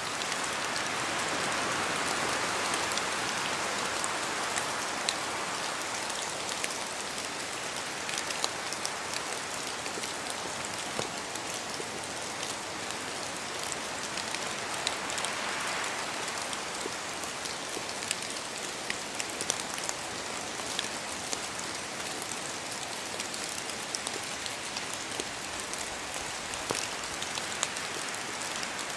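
Steady rain falling in a forest, a constant rush with many sharp individual drops ticking as they fall from the trees. The rush swells twice, about two seconds in and again about halfway through.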